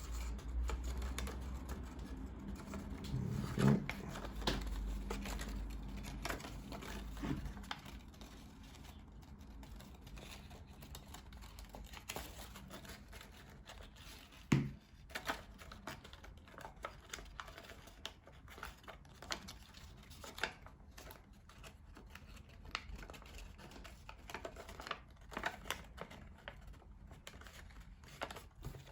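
Thin card or paper being handled, bent and pressed together by hand while a paper model is glued: scattered rustling and crinkling with small clicks, and a couple of louder knocks, one a few seconds in and one about halfway.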